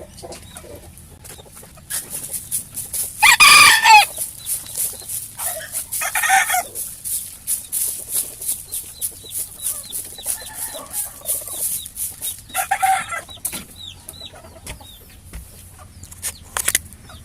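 Bantam chickens: a rooster crows loudly about three seconds in, with shorter calls near six and thirteen seconds, amid clucking. A fast high-pitched ticking runs underneath through most of the middle.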